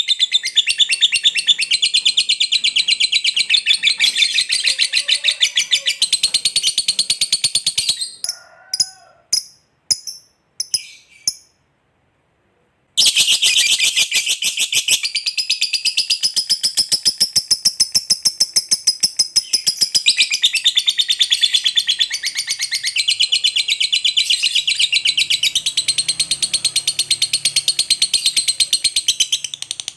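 Lovebird's long 'ngekek': a fast, high-pitched chattering run of notes strung together without pause. About 8 seconds in it breaks off into a few short separate calls and a moment of silence, then the long chatter resumes.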